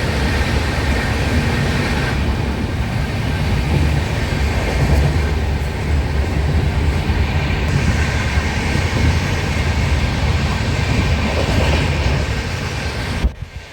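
Train running on the rails: a loud, steady rumble that cuts off suddenly near the end.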